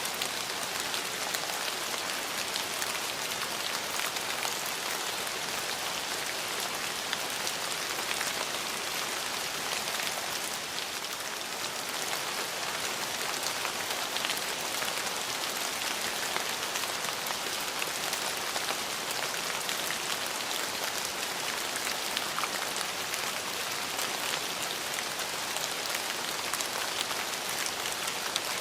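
Steady rain falling on surfaces: a continuous hiss with many small drop taps, and no thunder.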